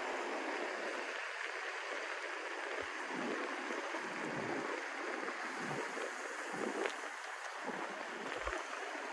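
Steady rushing wind and road noise on the microphone of a moving e-bike, with a couple of faint low knocks.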